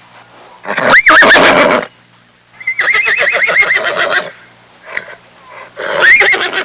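Horse neighing three times: a call about a second in, a longer quavering whinny in the middle, and another short call near the end.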